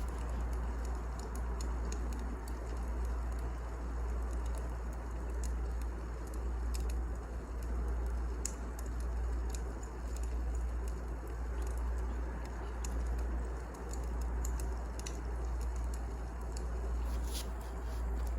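Wood fire crackling, with scattered sharp pops and snaps over a steady low rumble and hiss.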